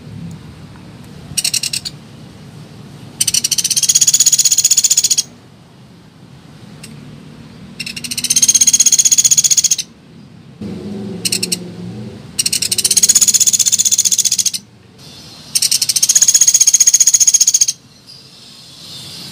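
Pelatuk beras woodpecker calls from a lure recording: a loud, rapid, high-pitched rattling trill. It comes in four bursts of about two seconds each with short pauses between them, plus two brief bursts, one about a second in and one about eleven seconds in.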